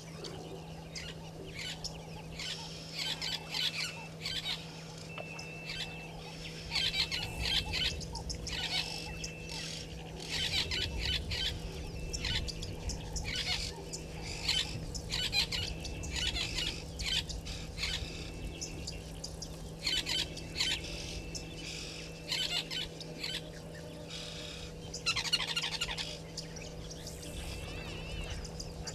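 Wild birds chirping and calling, with many short calls overlapping throughout, over a steady low hum.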